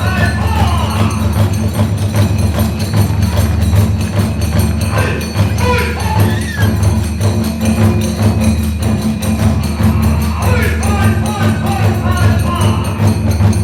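Kagura hayashi music: a bamboo fue flute melody weaving over big and small taiko drums, with the dense, continuous clash of tebyōshi hand cymbals.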